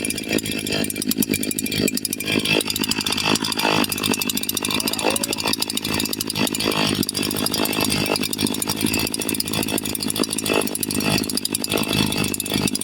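Echo CS-4910 two-stroke chainsaw running steadily, with the restrictor taken out of its muffler (a stage 1 muffler modification) giving it a louder exhaust note with more bark.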